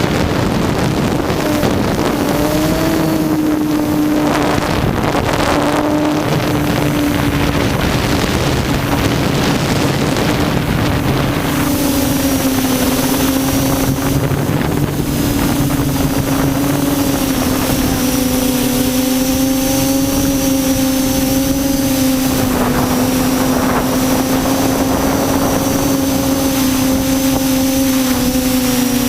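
Quadcopter's electric motors and propellers humming steadily, the pitch drifting slightly up and down, with wind noise on the microphone.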